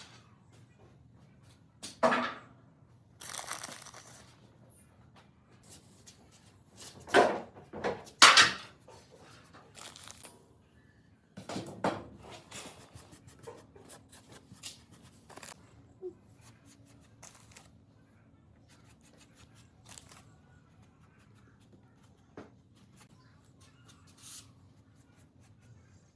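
Intermittent workshop handling noises: short scrapes or tearing rasps, the loudest about two, seven and eight seconds in, with scattered small clicks between them over a low steady hum.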